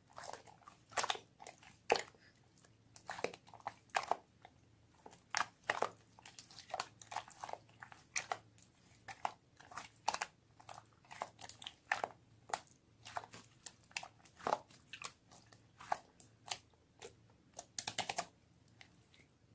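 Hands squishing and stretching a mixed slime, giving irregular sticky clicks and pops, about two a second.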